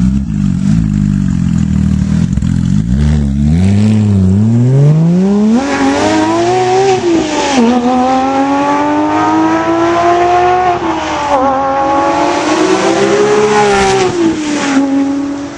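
Porsche 997 GT3 flat-six engine through a SharkWerks track exhaust, running low and steady for about three seconds, then revving up hard and pulling through the gears, the pitch climbing and dropping back at each of several upshifts.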